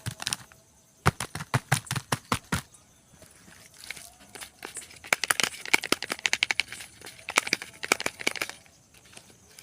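Soap wrapper being crinkled and torn open by hand: a quick run of sharp crackles from about a second in, then a denser spell of crinkling from about halfway to near the end.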